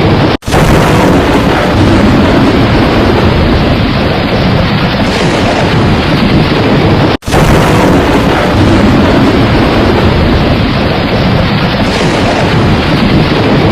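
Heavy rain pouring in a loud, steady roar with a deep rumble underneath. It cuts out for an instant twice, about seven seconds apart.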